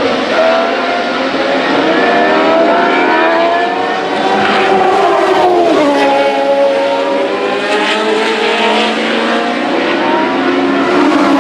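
Vintage race car engines running hard, with more than one car heard at once. Their pitch climbs as they accelerate, drops sharply about six seconds in, then climbs again.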